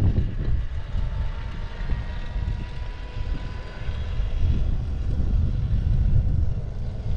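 Motorcycle engine running under a heavy wind rumble on the microphone, with a faint whine that rises slowly through the middle.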